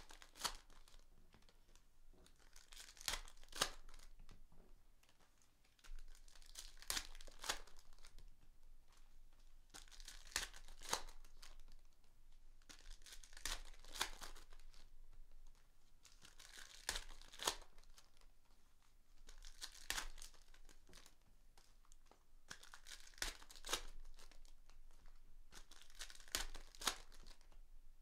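Foil trading-card pack wrappers being torn open and crinkled, in short bursts that come back every three seconds or so.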